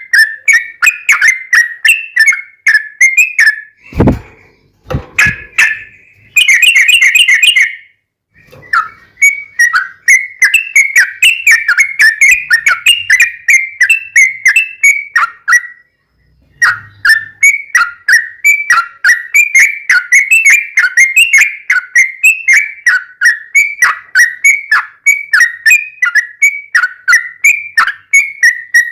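Yellow-vented bulbul (trucukan) singing its long, rapid chattering song: a fast run of short whistled notes, several a second, broken by two short pauses. Two brief low thumps come about four and five seconds in.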